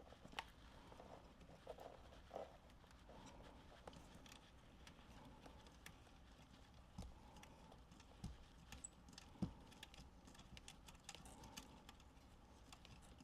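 Faint scattered clicks and a few soft knocks from hands working a 14-gauge ground wire into a car amplifier's terminal.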